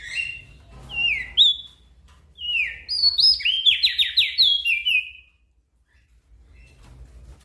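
Small songbird singing quick phrases of clear whistled notes, each sliding down in pitch. The notes crowd into a fast run around three to five seconds in, then stop about five seconds in.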